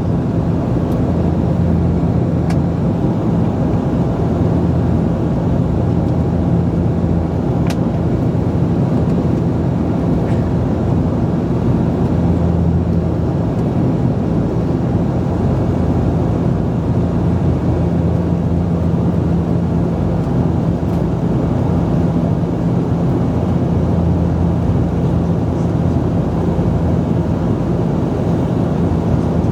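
Steady drone of a Bombardier Dash 8-Q400's Pratt & Whitney PW150A turboprops and propellers heard inside the passenger cabin: a constant low propeller hum over a loud, even rush of engine and air noise.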